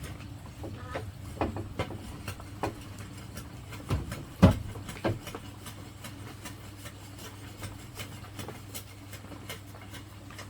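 Irregular knocks and taps, a few a second at first and then sparser, most likely from hand work on bamboo. The loudest knock comes about four and a half seconds in. A steady low hum runs underneath.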